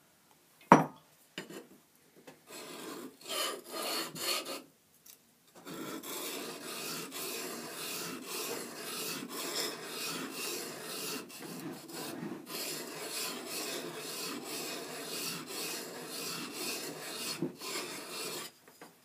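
Steel plane iron being whetted on the coarse side of an oiled carborundum sharpening stone. A sharp click comes about a second in, then a few short scraping strokes. After that comes a steady, rhythmic rasping as the iron is rocked back and forth across the stone, grinding the bevel.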